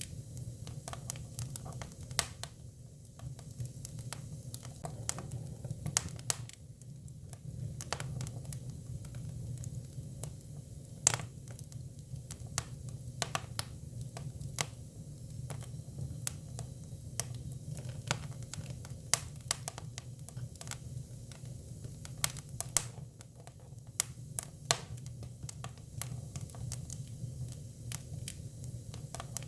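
Hinoki cypress firewood burning: irregular sharp crackles and pops, a few of them louder, over a steady low rumble of the fire.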